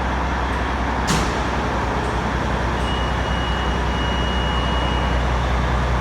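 Fire engine's diesel engine running steadily, with a short sharp hiss of air from its air brakes about a second in. A thin, steady high tone sounds for a couple of seconds in the middle.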